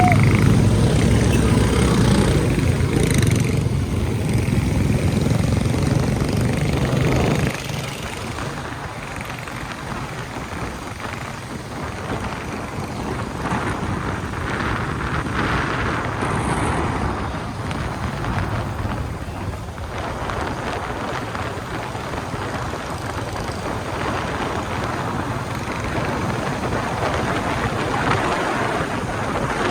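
Motorcycle on the move: engine rumble with wind and road noise on the microphone. The engine sound drops away suddenly about seven seconds in, leaving mostly a steady rush of wind and road noise.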